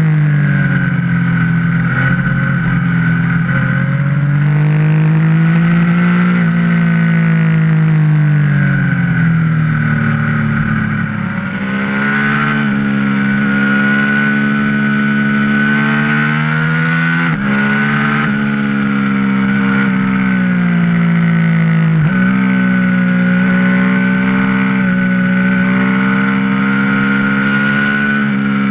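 Yamaha MT-09's three-cylinder engine running under way, its note rising and falling with the throttle, with a few sudden jumps in pitch.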